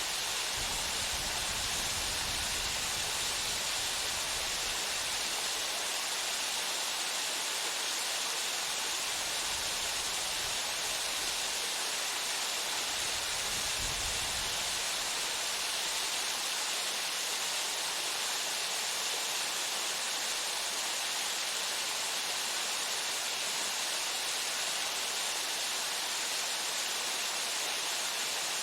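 Small waterfall pouring steadily into its pool, an even hiss of falling water.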